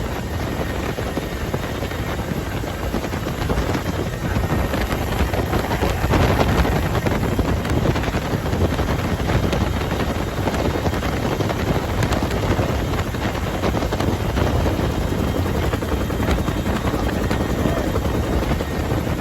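Bell UH-1H Huey helicopter in flight, heard from inside the cabin: its T53 turboshaft engine and main rotor make a steady, loud noise with no break.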